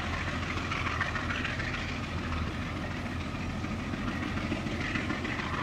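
A train running steadily, with a low, even hum under a rushing rail noise.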